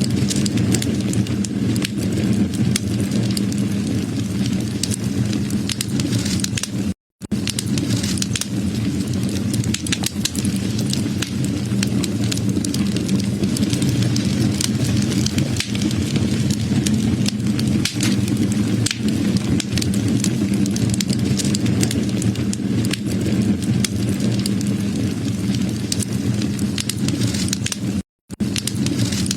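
Wood fire burning, with dense small crackles and pops over a steady low rumble. The sound cuts out to silence for a moment twice, about 7 seconds in and near the end.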